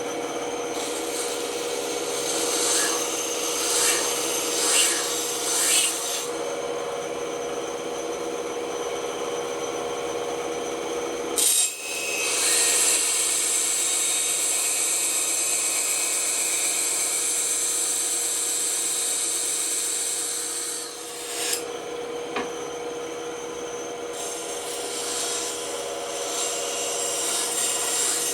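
Ryobi bandsaw running with a steady hum, its blade rasping through a wood cutout. The cutting grows much louder and brighter through the middle stretch, after a brief dip, then eases back near the end.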